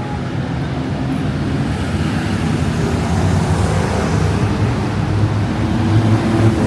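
City road traffic: the engines of passing vehicles run with a steady hum of tyres and motors, getting gradually louder.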